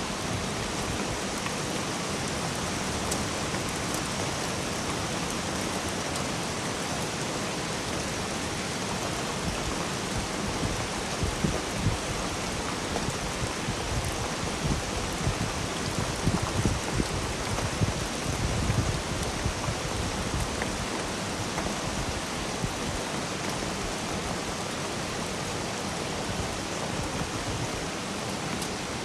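Steady rain falling, an even hiss throughout. Through the middle stretch come irregular louder low thuds.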